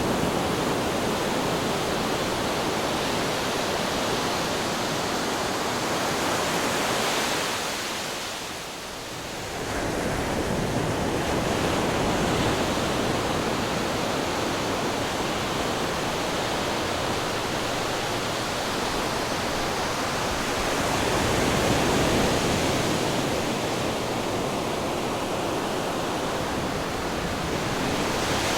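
Ocean surf breaking on rocks: a continuous rushing wash of water that swells and ebbs, dipping briefly about eight seconds in before the next wave surges.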